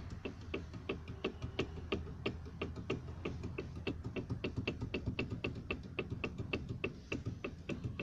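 Rapid, regular knocking, about five clicks a second, from a car wheel being rocked on a worn wheel hub bearing: the bearing's large play knocks with each rock.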